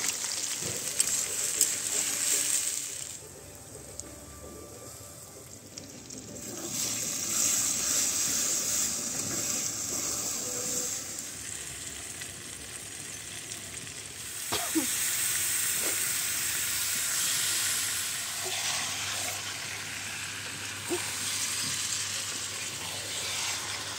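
Raw chicken and spice paste sizzling in hot oil in an iron kadai, stirred with a metal spatula. About three seconds in the sizzle falls quiet for a few seconds, then returns, louder again from about halfway through.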